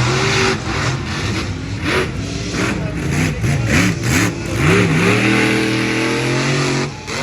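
Monster truck engines revving hard, the pitch swinging up and down several times and then holding high before cutting off sharply near the end.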